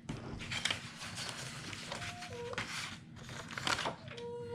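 Paper craft pieces rustling and crinkling as they are handled and sorted. A short pitched whine from a pet comes near the end.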